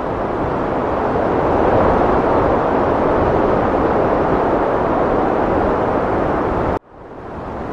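Heavy wind blowing as a steady rushing noise that swells in the first couple of seconds. Near the end it cuts out suddenly for a moment and fades back in: the join where the wind recording is looped.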